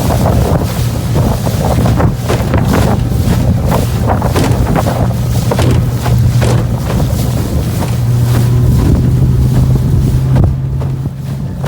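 Engine of a small fiberglass boat running under way at a steady pitch that rises a little near the end, with heavy wind buffeting on the microphone and water splashing.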